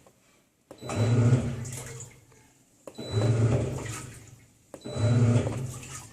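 Mabe Aqua washing machine's motor kicking on in short pulses about every two seconds. Each pulse starts with a click and a low hum with water churning in the tub, then fades. In this state it typically points to a failed motor sensor.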